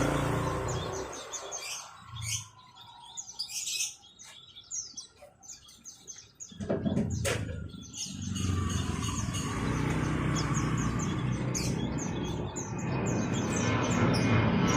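Caged small songbirds chirping, many quick high notes repeated over and over. About halfway through, a low steady rumble comes in beneath them and grows louder.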